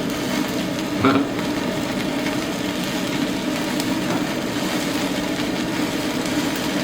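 Thin slices of meat sizzling on a tabletop yakiniku grill, over a steady low drone.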